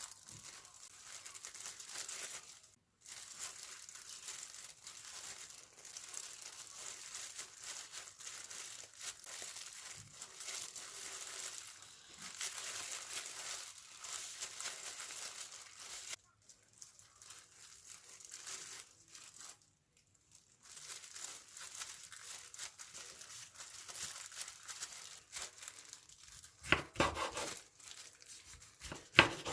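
Crinkling and rustling, like packaging being handled, going on and off with short pauses, with a few louder knocks near the end.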